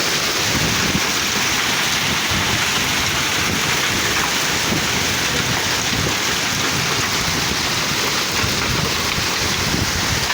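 Heavy hailstorm: hailstones pelting down on surfaces in a dense, steady clatter of many small impacts.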